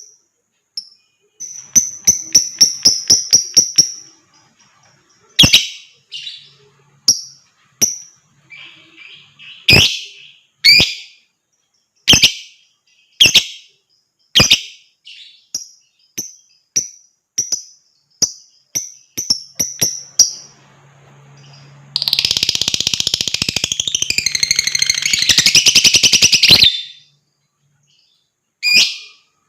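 Lovebird calling: sharp, high single chirps spaced about a second apart, with a fast run of clicking calls near the start. About two-thirds of the way in comes a long, loud, rapid chattering trill of some four seconds, the 'ngekek' that lovebird keepers prize.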